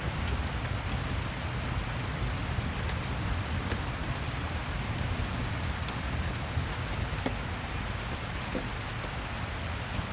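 Steady rain with a deep low rumble underneath, and a few faint crackles from a fireplace.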